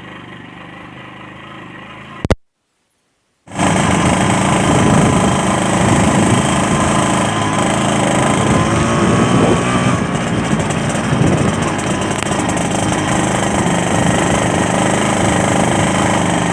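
Yamaha RX-King's 135cc two-stroke single-cylinder engine running on the move, with a rasping two-stroke note. It is quieter at first, cuts to a second of silence about two seconds in, then comes back much louder and stays steady.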